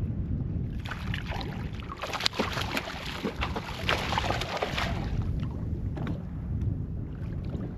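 Wind rumbling on the microphone and water sounds around a kayak, with scattered short clicks and knocks from about a second in.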